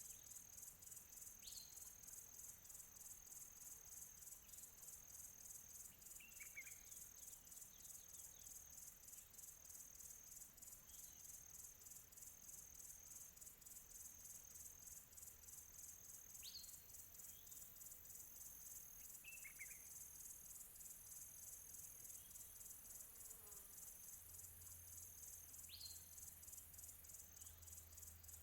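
Crickets chirring in a steady, fast-pulsing trill, faint and distant, with a bird giving short falling calls every few seconds.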